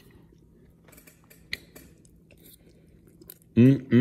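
A man chewing a mouthful of roast beef and broccoli, with faint soft mouth clicks. Near the end comes a loud hummed "mmm" of enjoyment that rises and falls in pitch.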